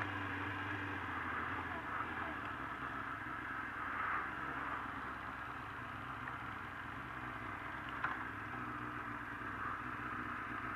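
Suzuki GSX-R 750's inline-four engine running at low revs as the motorcycle rolls slowly in, its note shifting down a little in the first two seconds and then holding steady.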